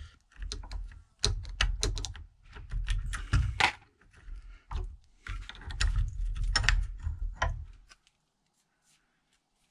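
Irregular clinks and knocks of small metal brake parts being handled as a motorcycle rear brake caliper is taken apart. They stop about two seconds before the end.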